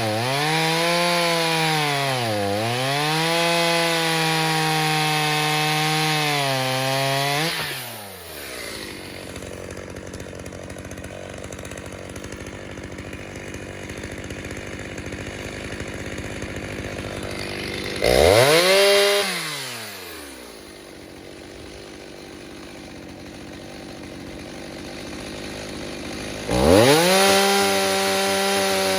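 Stihl 029 two-stroke chainsaw, rebuilt with a 45 mm cylinder, cutting wood at full throttle, its pitch dipping as the chain loads in the cut, then dropping to idle after about eight seconds. It idles, gets a short blip of throttle a little past halfway, idles again, and revs up and holds high near the end.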